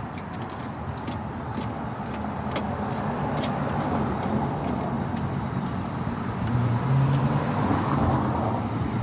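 A car engine running with road noise, its low hum growing louder from about two-thirds of the way through. Over it come a few scattered light metallic clicks as the horn's mounting bolt is worked loose with a 10 mm socket.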